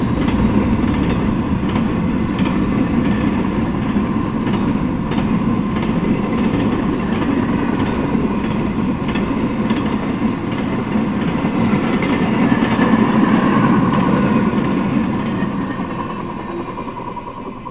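Intermodal freight train cars rolling past on the rails: a steady rumble of wheels with repeated clicks over the rail joints. It fades over the last few seconds as the end of the train goes by.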